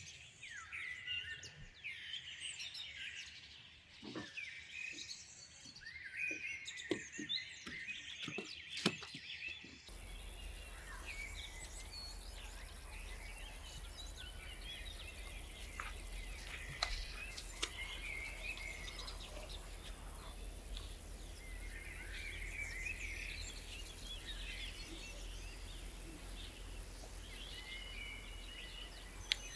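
Birds singing and chirping, with a few sharp knocks in the first ten seconds. About ten seconds in the background changes abruptly to a steady hiss and low hum under the continuing birdsong.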